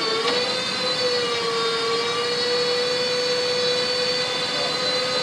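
Aerial bucket truck's engine and hydraulic boom system running with a steady whine while the boom is worked. The pitch dips right at the start, then holds level.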